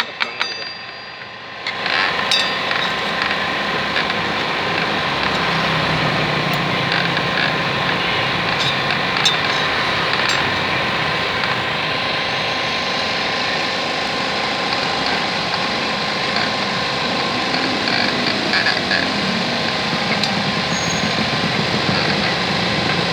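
Steady mechanical noise of a working motorcycle repair shop, with engine or machine running and a few faint tool clicks. It starts about two seconds in after a brief lull.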